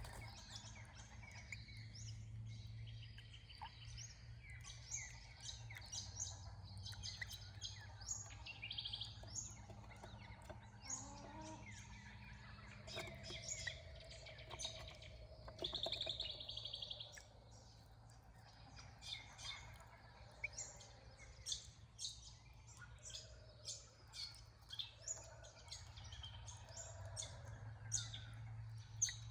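Several birds chirping and calling, many short high calls overlapping, with a longer buzzy call about halfway through, over a steady low hum.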